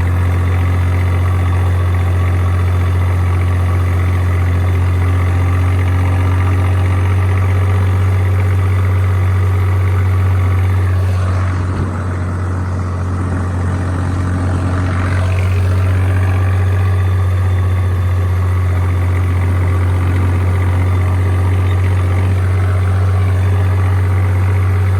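Tractor diesel engine running steadily with a deep, even hum, easing slightly for a few seconds around the middle.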